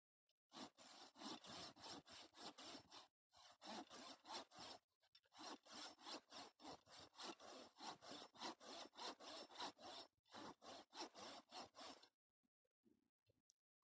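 Hand saw cutting through firewood: faint, even back-and-forth strokes of about three a second, pausing briefly twice and stopping near the end.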